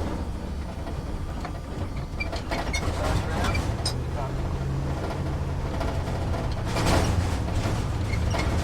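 Truck engine running, heard from inside the cab as a steady low rumble while the truck idles or drives slowly. Short rattles and squeaks of the cab are heard over it, and the rumble swells briefly about seven seconds in.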